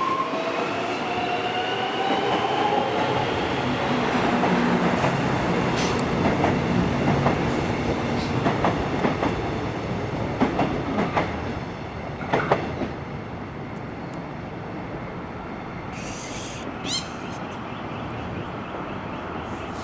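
Melbourne suburban electric train moving through the station, its motors whining upward in pitch at the start as it gathers speed. Then come repeated wheel clicks over the rail joints, which thin out and grow quieter after about twelve seconds.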